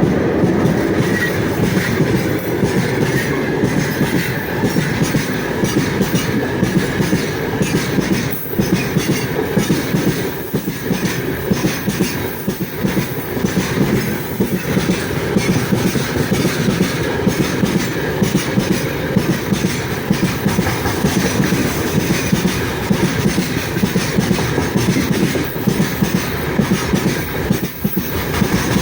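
Freight train rolling past, its wagons' wheels clattering steadily and rhythmically over the track.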